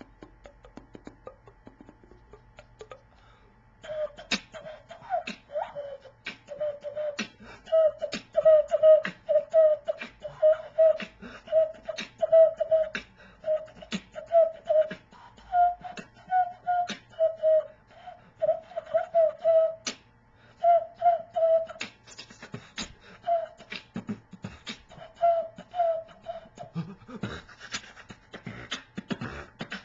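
Beatboxing: mouth percussion of sharp clicks and snare-like hits under a tune of short pitched notes, starting about four seconds in after a few faint clicks. Near the end the tune drops out and lower, noisier mouth sounds take over.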